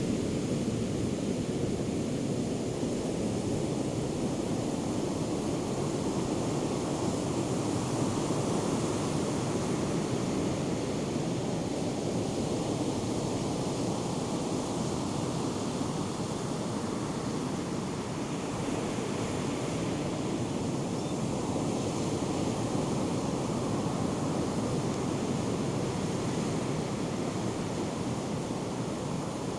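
Ocean surf from Hurricane Erin's swell, waves breaking and washing in as a steady rush that swells and eases slowly, with some wind buffeting the microphone.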